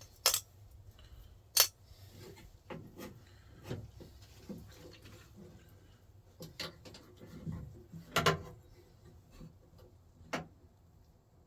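Scattered sharp metallic clicks and knocks from tools and parts being handled while working on a truck door's latch mechanism: four loud clicks, two in the first two seconds and two more later, with fainter taps and rubbing between.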